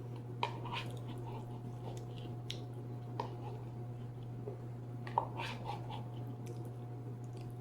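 Close-up chewing and mouth clicks of someone eating fried potato, with a few sharper crunches about half a second, three seconds and five seconds in, over a steady low hum.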